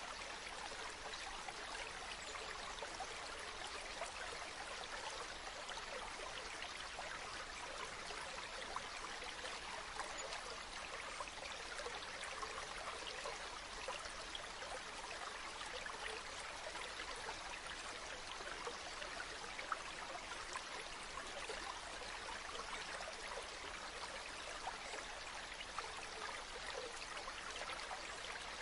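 Running water: a steady, unbroken rush of flowing stream water, with fine splashing detail throughout.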